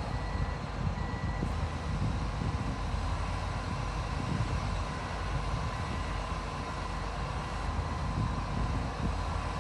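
Diesel engines of heavy earthmoving machinery running steadily with a dense low rumble. A faint high beep comes and goes at the start and again around the middle.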